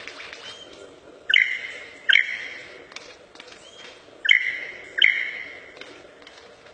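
Bird-of-paradise calling: four loud calls in two pairs, each starting with a sharp upward note and then holding a ringing tone that fades.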